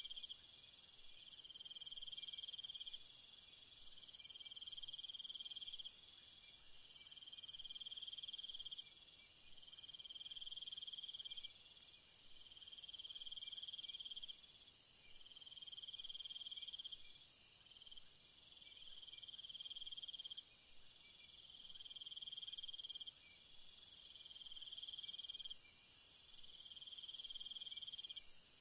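Night insect chorus: a cricket-like trill repeating about every two seconds, over a very high, shrill steady drone. The drone fades out around a third of the way in and comes back strongly a few seconds before the end.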